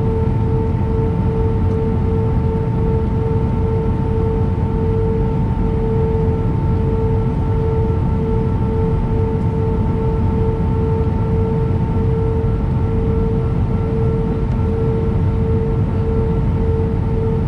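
Airbus A319 cabin noise from a seat over the wing: the jet engines' steady hum, with a low rumble under a constant whine that pulses slightly, plus fainter higher tones.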